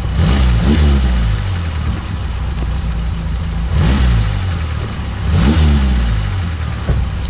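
Off-road vehicle's engine labouring at low revs and revving up hard in repeated surges, the driver working it through a difficult spot.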